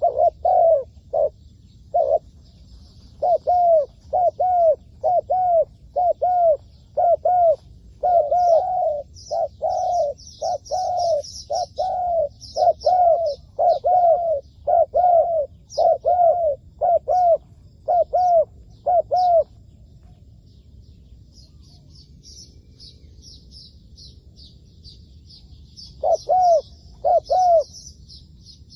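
Spotted dove cooing in a rapid series of short, rising-and-falling notes, about two a second. The series stops about two-thirds of the way through and returns briefly near the end. Small birds chirp higher and fainter in the background.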